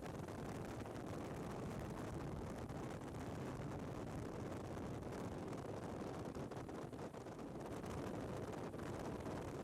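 Steady rumbling wind and road noise from a moving motorcycle, with no distinct engine note or change in speed.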